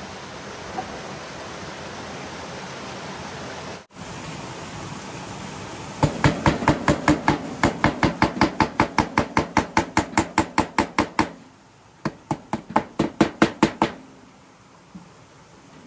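Rapid, sharp hammer strikes on a work piece, about five or six a second, in a run of several seconds, then a short pause and a second, shorter run. Before them there is a steady rushing hiss that cuts off suddenly.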